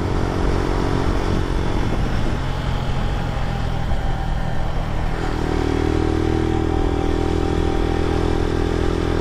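Lifan KP Mini 150 carbureted 150 cc motorcycle engine running under way, with wind and road noise. Its engine note drops back about two seconds in, then returns steady about five seconds in.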